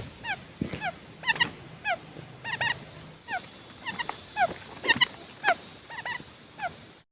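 Quail calling: a steady series of short, downward-sliding chirps, some single and some in quick pairs or threes, about two a second. This is a decoy call, played to lure wild quail.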